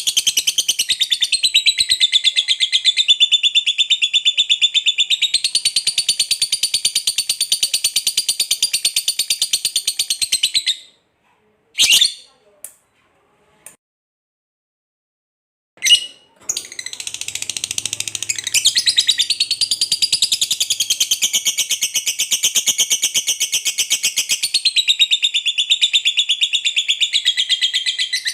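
Lovebird's long 'ngekek' chatter: a rapid, unbroken run of high, shrill notes that breaks off about ten seconds in. After a pause of a few seconds with two short calls, the chatter starts again and keeps going.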